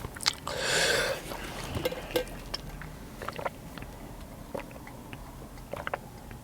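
A short breathy huff of air about half a second in, then soft chewing and small mouth clicks while eating sushi with a mouth burning from a hot pepper.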